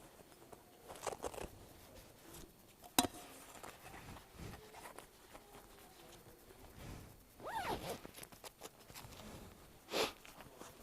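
Scattered handling noises close to the microphone: short rustles and rasps like a zipper, and one sharp click about three seconds in.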